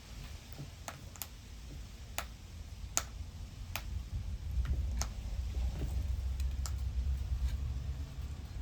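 Irregular sharp ticks or taps, about ten of them, over a low rumble that swells through the middle.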